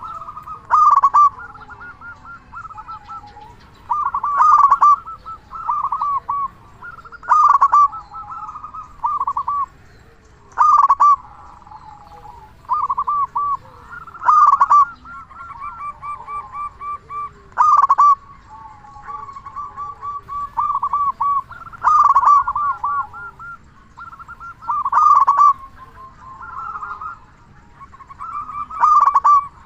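Zebra dove (perkutut) cooing. It gives repeated phrases of quick stuttering notes, with a loud phrase every two to three seconds and quieter calls in between.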